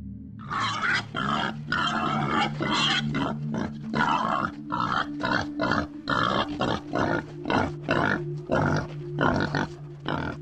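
Pig grunting in a long run of short calls, about two a second, over soft background music.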